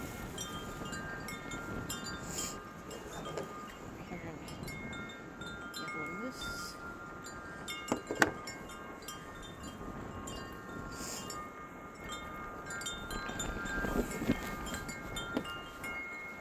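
Wind chimes ringing irregularly in gusty wind, many clear tones at different pitches overlapping, over wind rumble on the microphone. A single sharp knock about eight seconds in.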